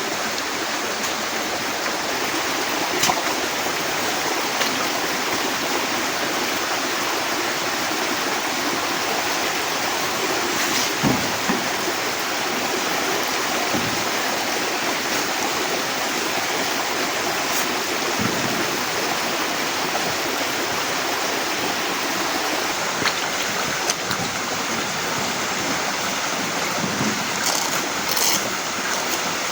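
Heavy rain falling steadily, a dense even hiss, with a few short knocks and taps, one about eleven seconds in and several near the end.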